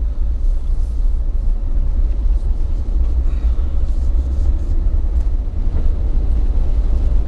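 Jeep driving on snow- and ice-covered streets: a steady, loud low rumble of the engine and tyres, with a few faint light clicks.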